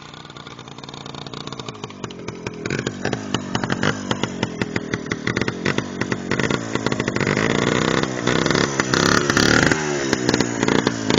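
Minsk motorcycle's single-cylinder two-stroke engine running, growing steadily louder over several seconds, its pitch rising and falling in the second half.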